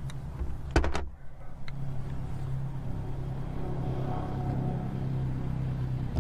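A short, sharp clatter of mechanical clicks about a second in, then a steady low hum like an idling motor.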